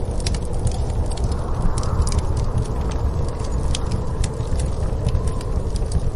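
Wood fire crackling with scattered sharp pops over a steady low rumble of storm wind, with a faint wavering wind howl.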